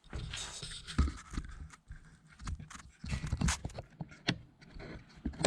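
Irregular knocks, clunks and scrapes from handling at close range, with a few louder knocks about a second in and around three seconds in.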